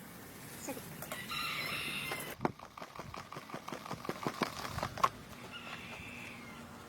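A rooster crows about a second in. A quick run of sharp taps or knocks follows, the loudest near the five-second mark, and a shorter bird call comes near the end.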